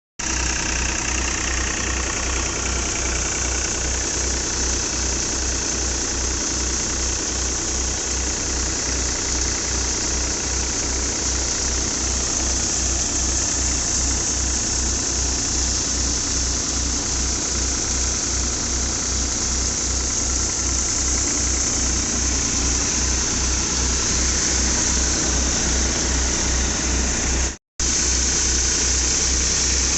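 Powertrac Euro 45 Plus tractor's diesel engine running steadily while driving an Agrimax wheat thresher, under a dense, even rushing of the threshing machinery. A low throb pulses evenly about three times a second, and the sound cuts out for a split second near the end.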